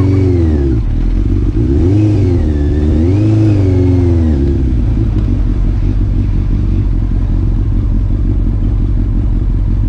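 Motorcycle engine revving up and down several times as it rides off, then settling into a steady loud rumble.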